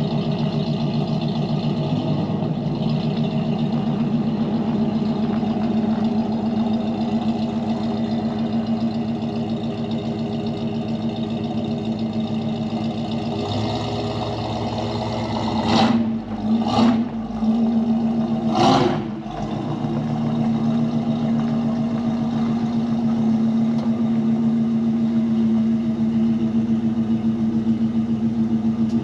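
Ford 460 big-block V8 of a 1984 F-250 idling steadily while warming up from a cold start, with three short, loud bursts a little past halfway.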